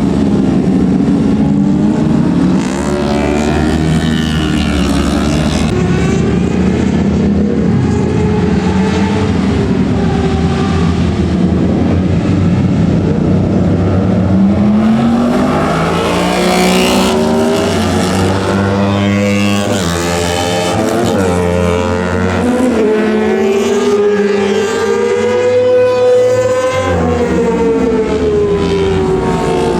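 Several 600 cc-plus superbike racing motorcycle engines running hard at once, their pitch rising and falling with throttle and gear changes.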